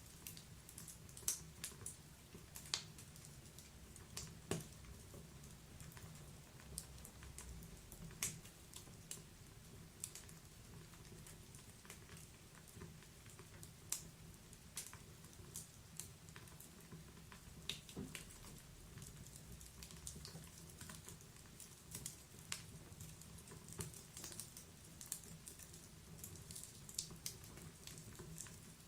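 Wood fire crackling in a fireplace: irregular sharp pops and snaps over a faint, steady low rumble.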